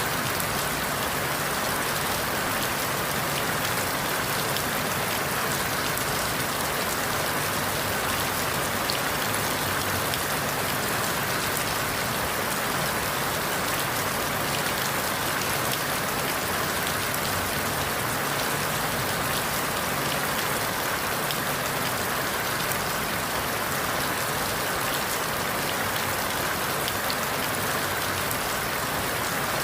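Steady rain falling on forest leaves, an even hiss with fine scattered drop patters and no change in intensity.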